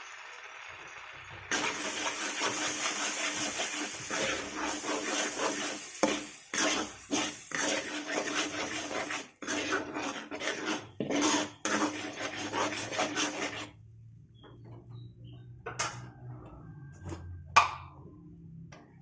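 A metal utensil stirring and scraping against a cooking pan with many clinks, over a dense sizzle that starts suddenly about a second and a half in. Near 14 s it drops away to a few scattered clinks.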